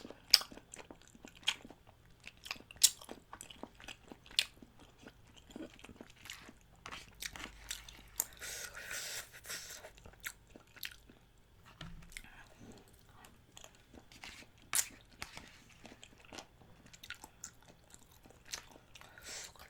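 Close-miked chewing and biting of food, with many sharp wet mouth clicks at irregular intervals and a hissing stretch of about two seconds partway through.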